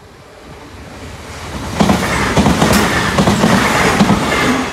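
ScotRail Class 385 electric multiple unit approaching and passing close by: its noise builds to a loud rush about two seconds in, with a string of sharp clicks through the pass, and drops off suddenly near the end.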